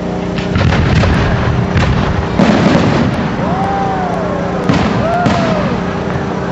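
Fireworks going off: a run of bangs and crackles through the first three seconds, then two more sharp bangs about five seconds in, over a steady low hum.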